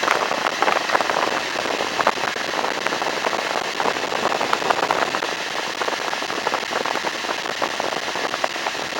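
Air conditioning blowing from the car's dash vents, a steady rush of air with a dense crackle of small ticks running through it.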